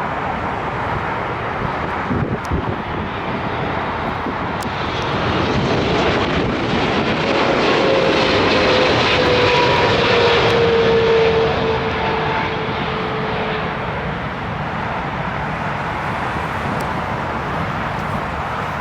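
Airliner passing on its landing approach. Its engine noise swells to a peak about ten seconds in, with a whine that slowly falls in pitch as it goes by, then eases off.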